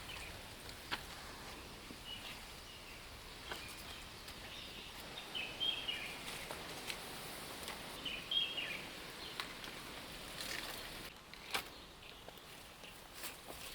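Outdoor rural ambience with a steady hiss, in which small birds chirp in short clusters a few times, along with scattered light clicks and knocks.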